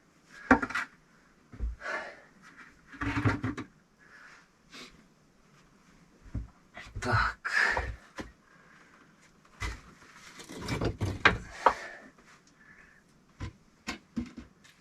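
Bricks and clay being handled during stove building: irregular knocks, clunks and scraping at a slow working pace, in a small enclosed room.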